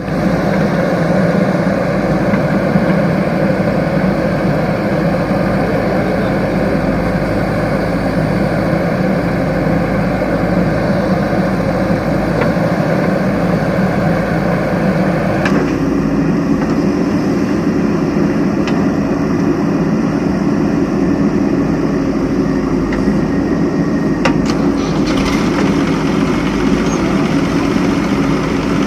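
Heavy diesel machinery of the kind a JCB backhoe loader and a farm tractor carry, running steadily. About halfway through a click comes, and the engine note changes abruptly to a new steady pitch.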